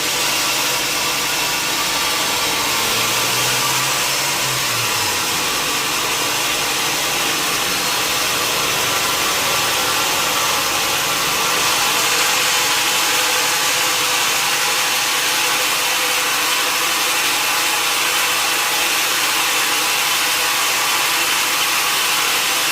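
Sawmill saw running steadily through mahogany, a continuous even noise that holds at one level throughout.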